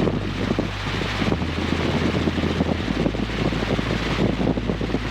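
Helicopter cabin noise in flight: a steady drone of engine and rotor with a low hum, with rushing air over it.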